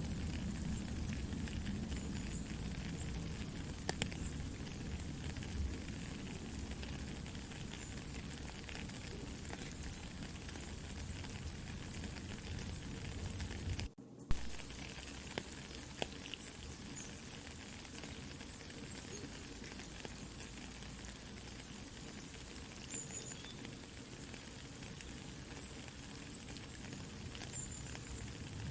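Soft steady rain mixed with a campfire crackling and popping. About halfway through, the sound drops out for a moment and comes back with a sharp pop.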